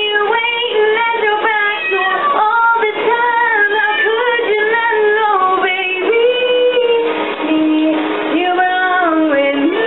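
A woman singing held, gliding notes over music.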